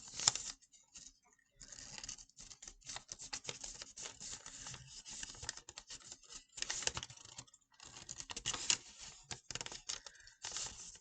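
Paper rustling and crinkling as a sheet of origami paper is handled, its flaps tucked in and creased, in short irregular crackles and taps.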